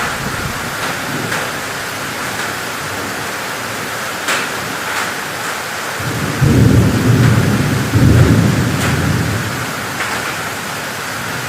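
Heavy rain pouring steadily, with a low roll of thunder rumbling for about three seconds from around six seconds in.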